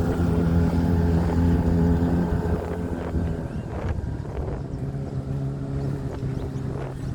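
Motorboat engine running as the boat passes and moves away, fading steadily, its tone shifting about three seconds in.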